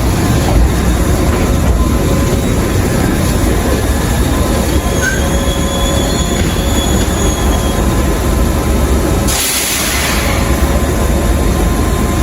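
Kintetsu electric train running along the track, with a faint high wheel squeal in the middle and a short burst of hiss near the end.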